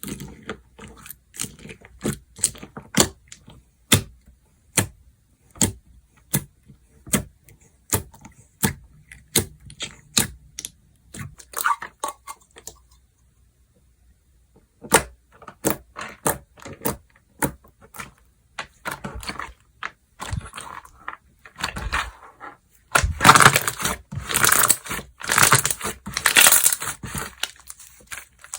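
Slime being squeezed and stretched by hand, giving sharp crackling pops about one or two a second. There is a short pause about halfway, and a denser run of crunchy crackling near the end.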